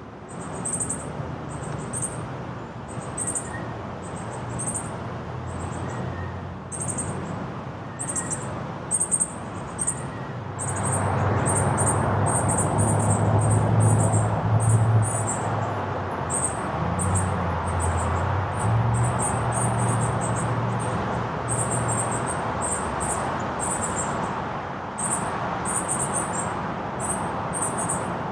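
Small birds chirping, with short, very high chirps repeated over and over. Under them run a low hum and a broad rushing background noise that grows louder about ten seconds in.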